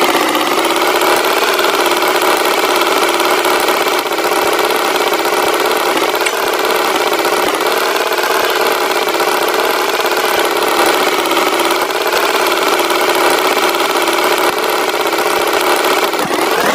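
A tractor engine running steadily at a constant, fairly high pitch. The pitch bends briefly near the end.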